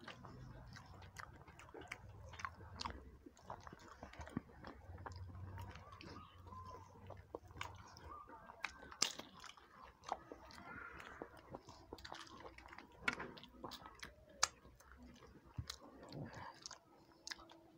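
Faint close-up eating sounds: chewing and mouth noises with many scattered short clicks and ticks as fingers mix food on plates. A low hum sits under the first half.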